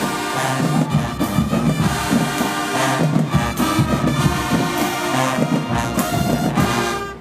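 Marching band brass and drums playing loudly, horns over a heavy low brass line with percussion hits. The music cuts off right at the end.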